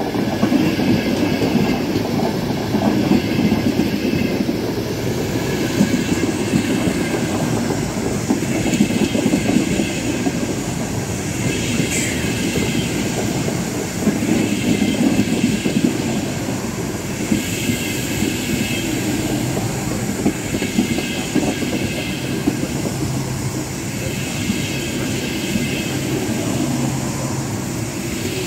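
Trenitalia Frecciarossa high-speed train rolling slowly along the platform, its wheels clattering in an even repeating rhythm over the rails, with one sharp, brief squeak about twelve seconds in.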